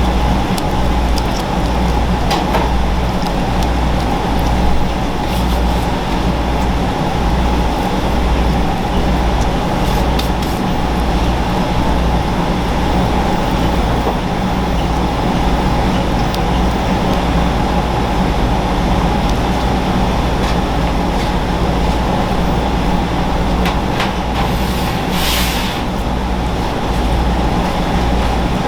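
Steady low mechanical hum with a pulsing rumble, scattered light clicks, and a brief hiss about 25 seconds in.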